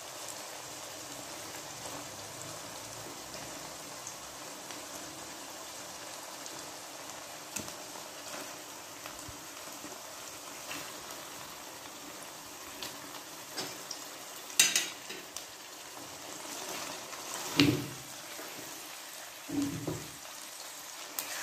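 Beef slices, chopped onion and ginger-garlic paste sizzling in hot oil in a karahi, a steady frying hiss. A few sharp knocks and clatters come in the second half as more meat goes into the pan.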